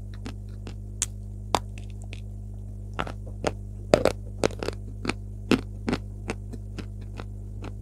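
Close-miked chewing of a mouthful of chalk: irregular small crackles and wet mouth clicks, about two to three a second, loudest around the middle. A steady low electrical hum lies underneath.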